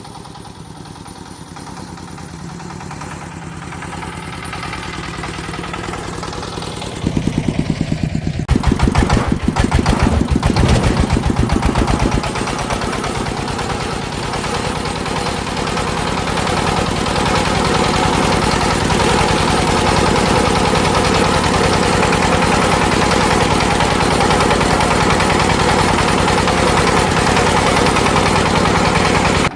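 A vehicle engine running and growing louder. About seven seconds in it breaks into a loud, fast chugging for several seconds, then settles into a steady, loud run.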